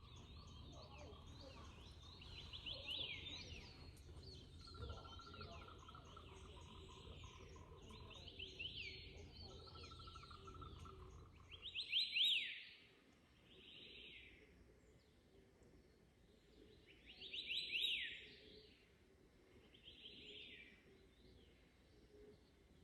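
A hwamei singing its dawn song: phrases of quick, falling whistled notes repeated every few seconds, with the loudest phrases about halfway and again about three-quarters through. Other birds call faintly, and a low steady rumble underneath stops about halfway.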